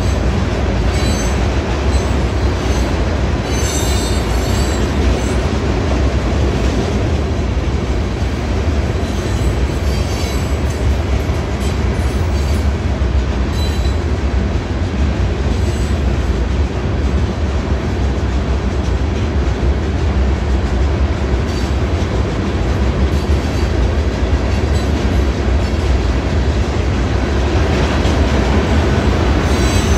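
Freight train of loaded open-top hopper cars rolling past, a steady rumble of steel wheels on rail with a brief high wheel squeal about four seconds in.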